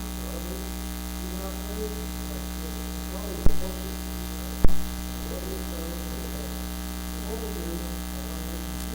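Steady electrical mains hum in the audio feed, the fault behind the recording's bad sound, with faint indistinct voices underneath. Two sharp thumps come a little over a second apart, near the middle.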